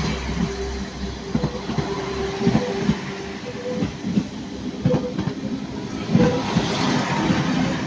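Transport for Wales Class 197 diesel multiple unit pulling out of the station, with a steady whine and its wheels knocking irregularly over the track joints.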